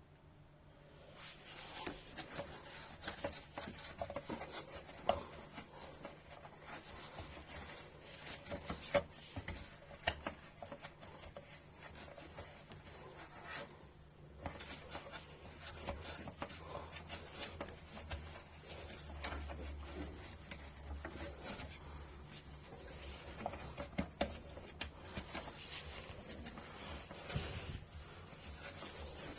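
Hand scrubbing and wiping inside a refrigerator's drip tray, an uneven rubbing with frequent small clicks and knocks, starting about a second in.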